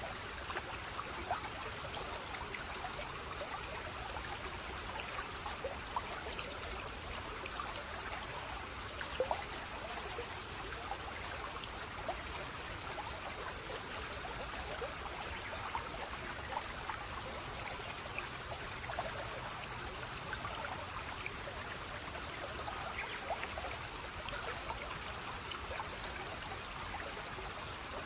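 A small stream of water trickling and splashing steadily, with many small scattered splashes.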